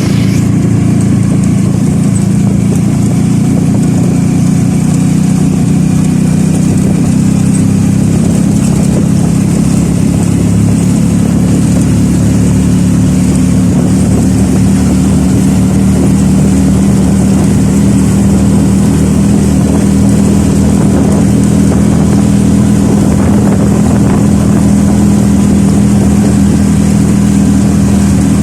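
A loud, steady engine drone that holds one pitch throughout, as from a running motor vehicle.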